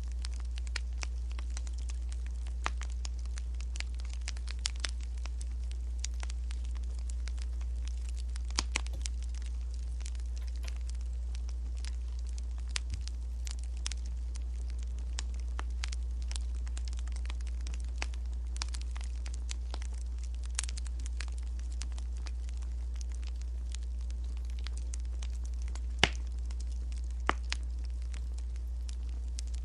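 Wood fire crackling: irregular small pops and snaps over a steady low rumble, with a couple of sharper snaps near the end.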